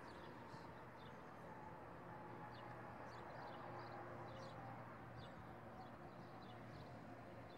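Faint outdoor ambience: many short, high bird chirps over a low, steady hum.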